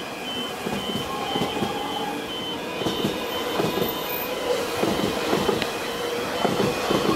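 X'Trapolis electric suburban train running past, its wheels clacking over rail joints at irregular intervals with a steady motor hum. The level crossing's warning bell dings repeatedly throughout.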